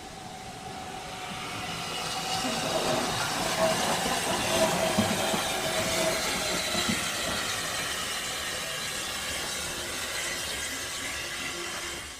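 Steam locomotive with steam hissing, growing louder over the first three seconds, then holding steady before stopping abruptly at the end.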